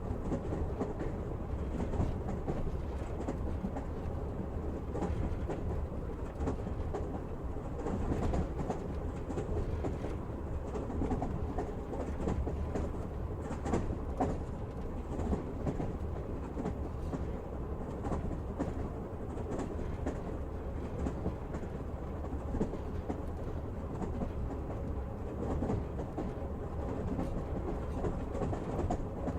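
Steady rumble of a moving passenger train, with the wheels clicking over rail joints now and then.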